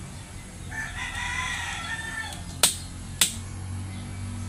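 A rooster crows once, a wavering call of about a second and a half, followed by two sharp clicks about half a second apart.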